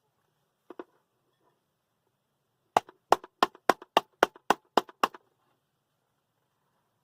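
A quick run of about nine sharp knocks on an electric blade coffee grinder after grinding, about four a second, the usual way to knock grounds loose from the lid and blade. A faint double click comes shortly before.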